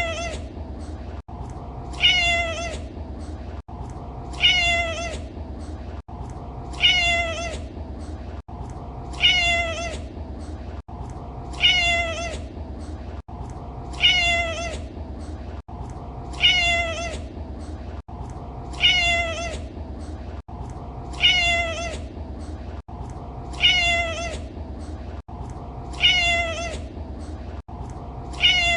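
A domestic cat meowing, one identical short call that falls in pitch repeated about every two and a half seconds, over a steady low background hum.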